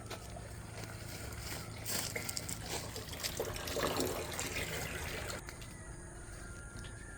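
Rainwater trickling and dripping, with scattered drops and a louder patch of splashing a few seconds in.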